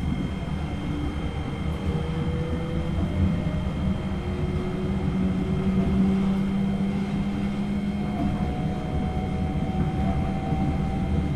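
Tokyo Monorail 2000 series car running, heard from above its motors: the Hitachi IGBT VVVF inverter and traction motors whine in several tones that rise slowly as the train accelerates. Under them is a steady rumble from the rubber-tyred running gear, and two steady high whistles sound throughout.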